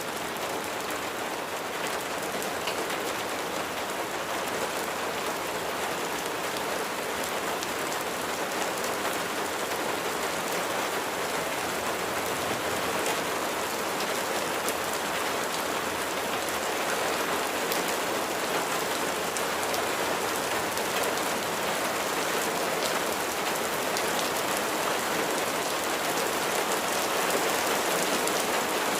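Steady heavy rain falling on a surface, a dense even hiss with many fine drop patters, growing slightly louder over the stretch.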